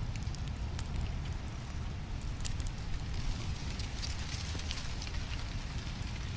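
Wood fire crackling, with scattered sharp pops and snaps over a steady low rumble of flame.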